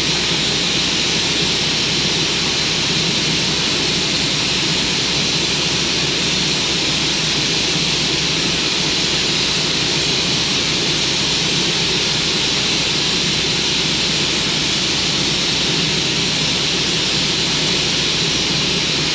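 Steady, unchanging mechanical roar with a strong hiss and a low rumble underneath.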